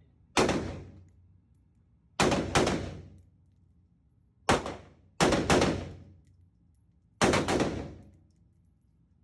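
Firearm shots at an indoor range: about eight sharp reports, several in quick pairs, each with an echoing tail that dies away within a second.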